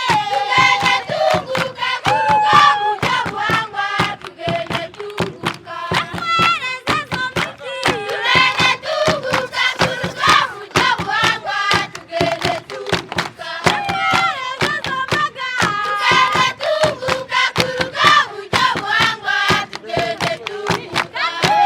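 A group of voices singing together over steady, rhythmic hand clapping.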